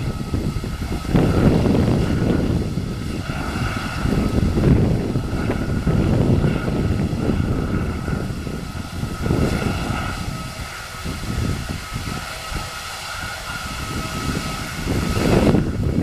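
Airbus A319 jet engines running: a steady high whine over a low rumble that swells and fades.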